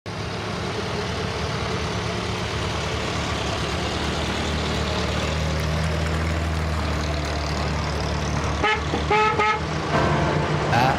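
Vintage tractor engines running steadily, with short horn toots near the end.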